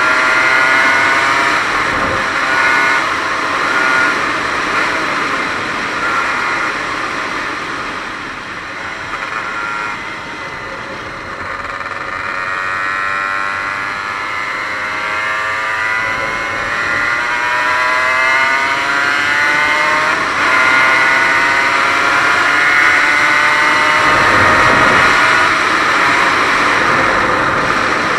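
Single-cylinder two-stroke engine of a 1998 Aprilia RS 125 under way, revving up and down through the gears. The cylinder is rebuilt, without a power valve. About ten seconds in the revs drop as it slows, then climb again, with a steady rush of wind noise throughout.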